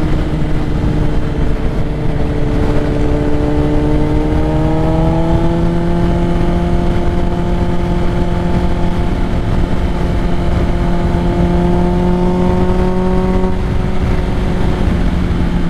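Honda CBR600RR inline-four motorcycle engine with a Two Brothers full exhaust running under way at a fairly steady speed. Its note dips slightly, rises a little a few seconds in, and eases near the end, with a dense rushing noise beneath.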